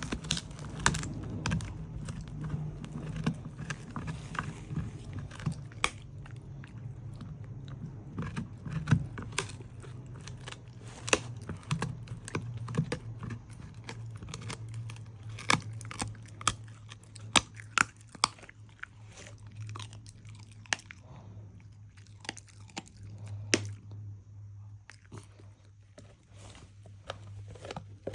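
A dog chewing and crunching its food, with irregular sharp crunches and bites spread throughout, over a steady low hum.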